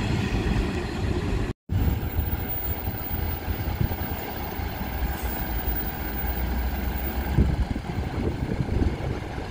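Train noise at a railway station, cut off by a brief total dropout about a second and a half in. After it, a steady low rumble of a diesel train engine running at idle.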